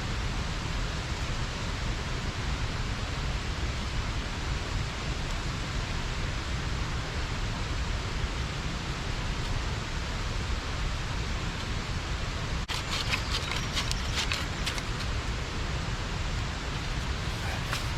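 Steady rush of river water pouring over a small check dam, a constant hiss with a low rumble under it. About 13 seconds in, a brief flurry of sharp clicks sits on top for a second or two.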